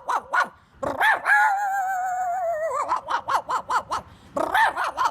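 A man imitating a dog with his voice: quick runs of short yapping barks, then a long wavering whine, then more rapid barks.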